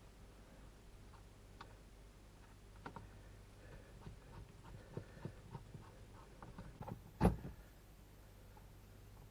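Small clicks and taps of RC car parts and tools being handled on a workbench, growing busier and ending in one louder sharp knock about seven seconds in.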